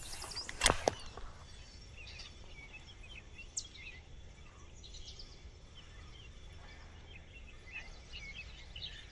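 Small birds chirping faintly and repeatedly over quiet riverside ambience, with one brief sharp sound less than a second in.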